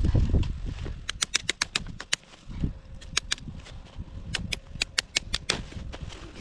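Two runs of quick, evenly spaced sharp taps, about six a second, with a few single taps between them. A low rumble is heard at the very start.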